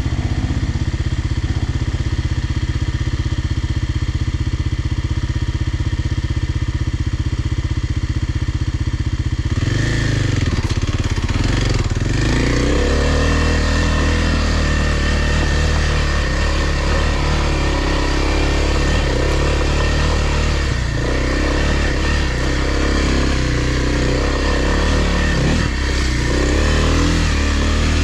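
Kawasaki dirt bike engine running at a steady note, then, about ten seconds in, the sound changes to a shifting engine pitch that rises and falls as the bike is ridden along the trail.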